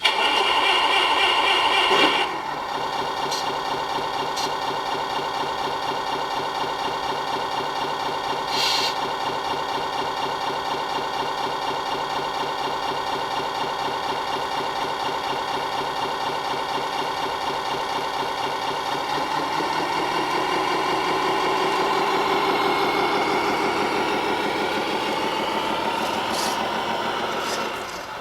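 Simulated Scania V8 engine sound from a Tamiya 1:14 Scania R500 RC truck's sound unit: a start-up lasting about two seconds, then a steady idle that rises slightly in pitch about twenty seconds in.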